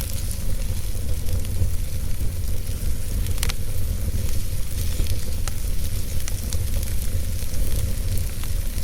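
Wood fire burning in a fireplace: a steady low rumble and hiss with scattered crackles and pops, the sharpest pop about three and a half seconds in.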